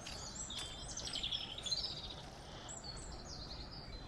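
Small birds chirping and trilling, a string of short high calls busiest about one to two seconds in, over a steady low rumble.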